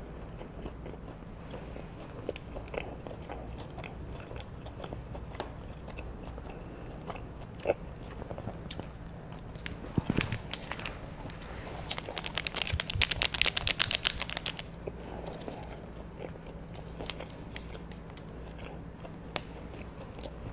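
Close-miked chewing of McDonald's Chicken McNuggets, with small mouth clicks throughout and a run of rapid crunching about twelve seconds in, lasting a couple of seconds.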